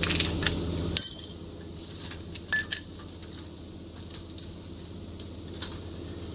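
Light metallic clinks and taps of metal tools and bolts being handled, a cluster in the first second or so and another near three seconds in. A steady low hum cuts off about a second in.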